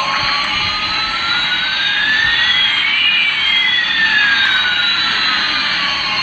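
Electronic jet-engine sound effect from a toy airliner's small speaker: a loud hiss with one whistling tone rising and another falling, the two crossing about halfway through.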